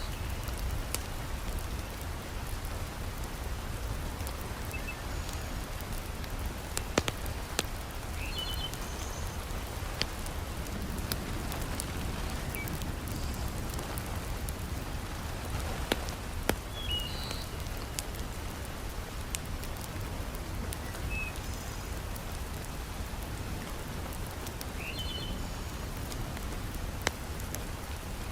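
Heavy rain falling steadily, with a low rumble beneath it and a few sharp crackles from a wood fire in a fireplace. Faint short high chirps recur every several seconds.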